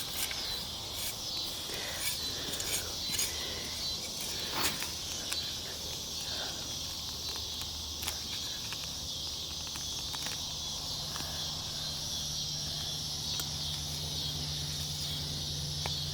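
Steady high chorus of insects. Scattered scrapes and knocks in the first few seconds fit digging into turf for a detected target.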